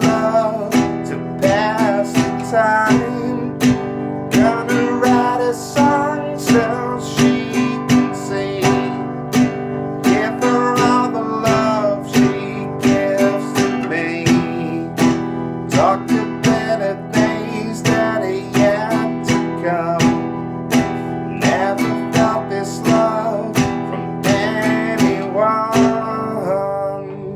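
Nylon-string acoustic guitar strummed steadily in a down, down, down-up, down pattern across two chords. The strokes repeat evenly, and near the end the last chord is left to ring and fade.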